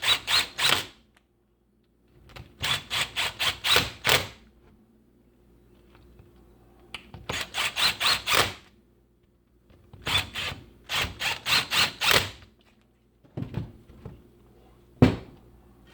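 Runs of sharp, rapid hard knocks or taps, about four to five a second, in groups of five to eight with short pauses between, then a few single knocks near the end, one of them the loudest.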